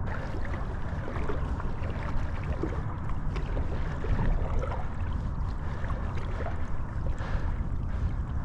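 Water sloshing and splashing as a hunter wades through waist-deep water, over a steady wind rumble on the microphone.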